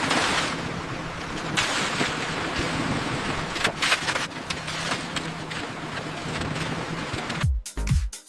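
Steady rushing noise with a low steady hum beneath it and a few knocks. Electronic dance music with a heavy beat cuts in near the end.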